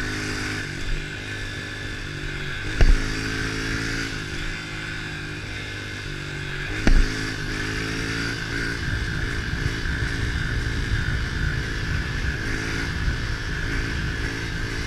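110 cc pitbike's single-cylinder four-stroke engine running while being ridden, its pitch stepping up and down with the throttle. Three brief loud bumps break in: one at the start, one about three seconds in and one about seven seconds in.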